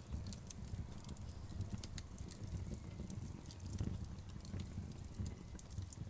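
Wood fire crackling, with frequent sharp pops and snaps of burning logs over a low steady rumble.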